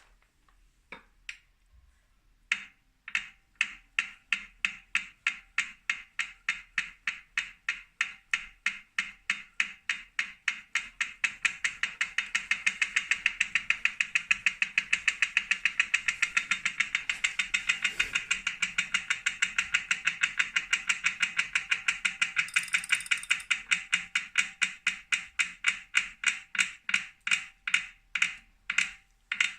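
Wahoo Kickr Core smart bike trainer making a repeated loud clicking as it runs, the clicks coming faster through the middle and slowing again near the end. The owner takes it for a defect: a broken axle bearing or loose magnets.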